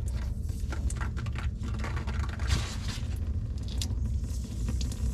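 Water hissing and spattering out past the stem of an old under-sink shut-off valve, with scattered clicks and knocks of handling. The valve leaks at its stem and has to be replaced.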